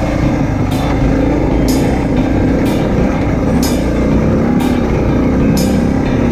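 Motorcycle engine running steadily under way, with rushing road and wind noise. A short high tick comes about once a second throughout.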